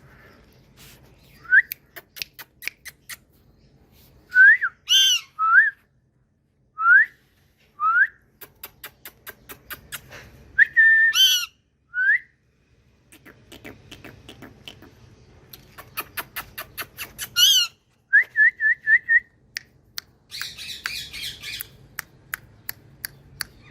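Ringneck parakeets calling: short rising whistles, some in quick runs, broken by several harsh squawks, with runs of sharp clicks in between.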